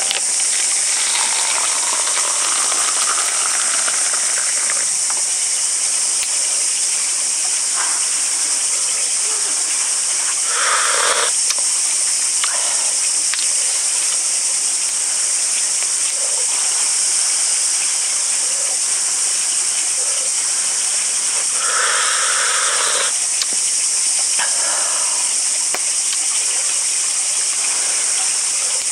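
Steady high-pitched hiss with a few short animal calls over it, the clearest about eleven and twenty-two seconds in.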